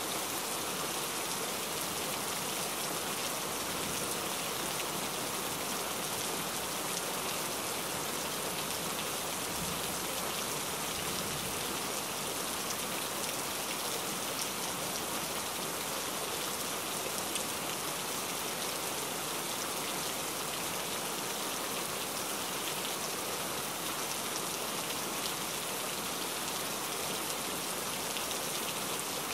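Steady rain falling: a constant, even hiss flecked with many small drop ticks.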